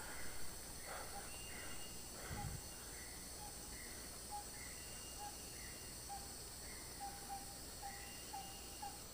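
Sumatran rainforest ambience: a steady high-pitched insect drone, with a bird repeating a short call note about once or twice a second, more often in the second half. A single low thump about two and a half seconds in.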